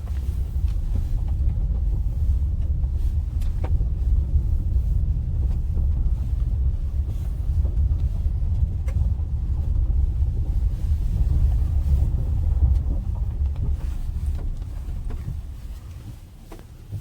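Low, steady rumble inside the cabin of a 2021 Honda Ridgeline pickup on the move, from road and engine noise. The rumble dies down over the last few seconds.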